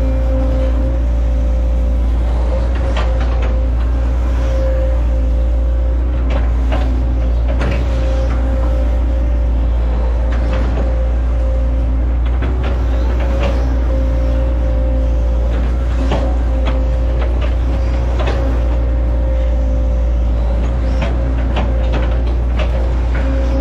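Hitachi ZaXis 110 excavator's diesel engine running steadily under load with a constant whine. Irregular knocks and cracks come every second or two as the machine chops at oil palm trunks.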